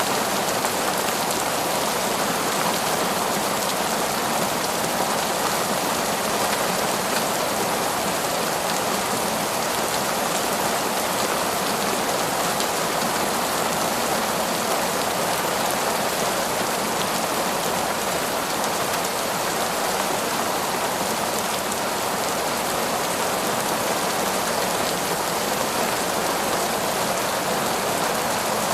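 Heavy, torrential rain falling steadily in a forest, a dense even hiss of drops with no breaks or thunder.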